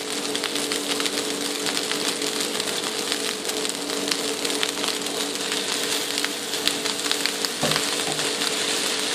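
Vegetable fried rice sizzling in a hot wok, a steady crackling hiss, with a steady low hum underneath.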